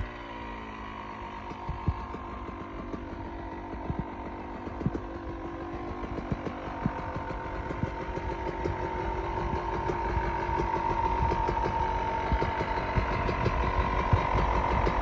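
Dirt bike engine running low and steady, with scattered clicks, slowly growing louder in the second half.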